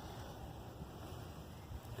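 Wind buffeting the microphone: a low, uneven rumble with a faint hiss above it.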